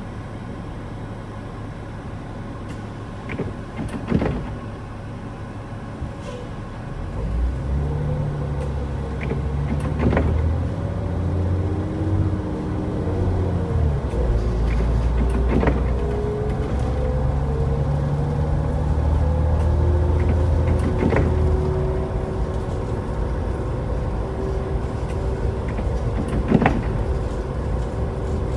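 A car driving, heard from inside: a low engine and road drone that grows louder about seven seconds in and then holds steady, with a soft knock every five or six seconds.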